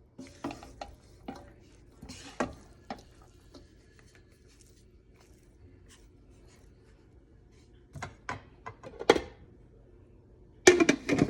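Utensils knocking and scraping against dishes and cookware: scattered clinks and clicks, with a louder run of clatter near the end.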